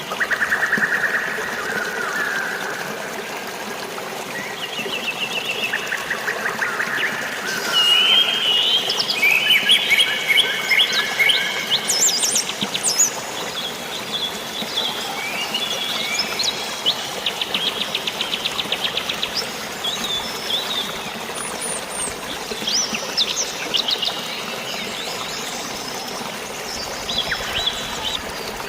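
Several birds chirping and singing rapid trills, busiest about a third of the way in, over a steady rush of flowing water and light rain.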